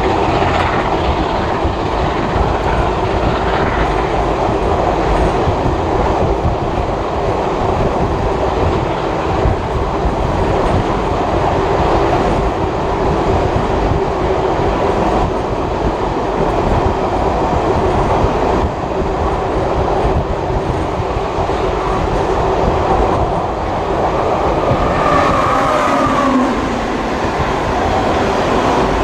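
Passenger carriage of a train hauled by steam locomotive 5917 running along the track, heard on board: a steady rumble of wheels on rails with clickety-clack. A brief wavering higher tone comes in near the end.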